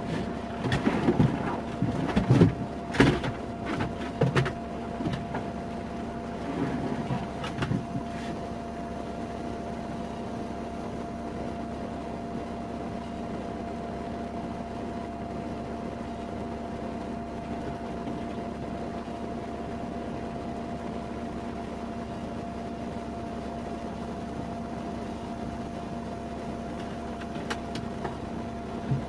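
A steady machine hum holding two constant tones. Clicks, knocks and rustling come in the first eight seconds, then only the hum, with one more click near the end.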